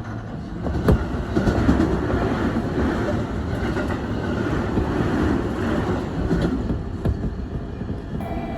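Electric passenger train running along a platform, its wheels clattering over the rail joints with a steady rumble that swells about a second in. A sharp click comes near that point, and a steady tone starts shortly before the end.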